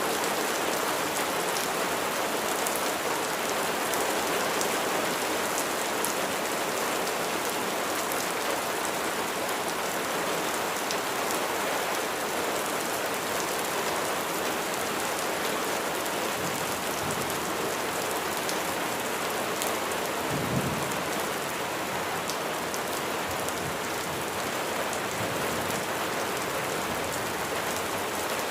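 Steady heavy rain, a dense hiss with individual drops ticking through it. A low rumble of thunder swells briefly about twenty seconds in.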